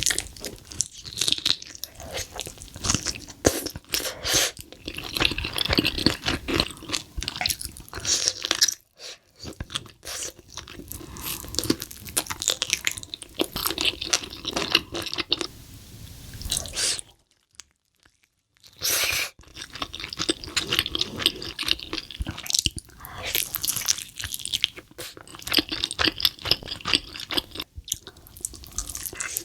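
Close-miked eating: a person biting into and chewing crunchy chicken, with wet crackling crunches and chewing throughout. There is a break of about a second of silence a little past halfway.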